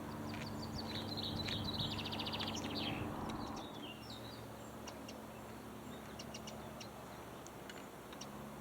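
Small birds chirping and twittering, with a rapid trill about a second and a half in. Under them runs a faint low steady hum that fades out about three seconds in.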